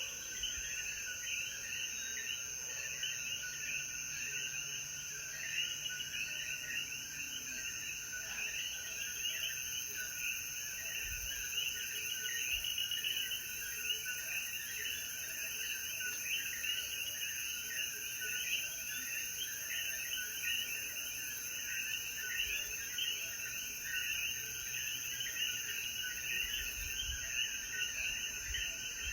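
Chorus of many Puerto Rican coquí frogs: countless short, rising chirps overlapping without pause. A steady high insect drone sits above them.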